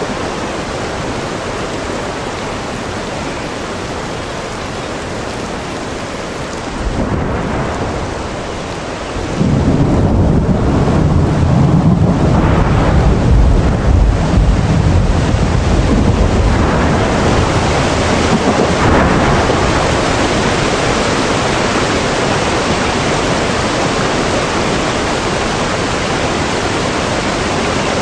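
Steady rain with a long roll of thunder: a deep rumble starts about seven seconds in, swells to its loudest for several seconds, then eases back under the rain.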